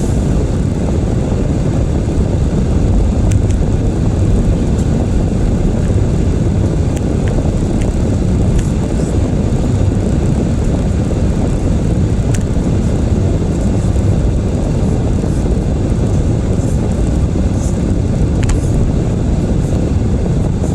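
Steady road and tyre noise inside the cabin of a moving Toyota Prius, a dense low rumble with a few faint ticks.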